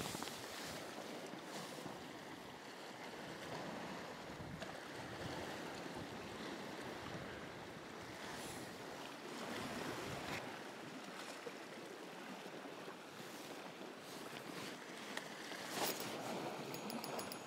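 Sea waves washing against shore rocks and wind on the microphone, a steady noise, with a short knock near the end.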